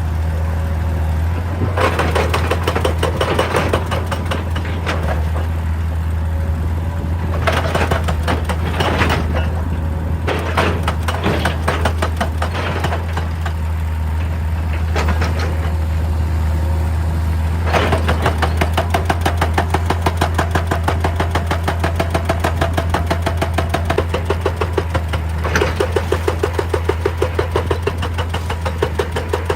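Hitachi EX200 excavator's diesel engine running steadily, with bursts of scraping and grinding from digging. About two thirds of the way through, a rapid, regular knocking sets in and keeps going.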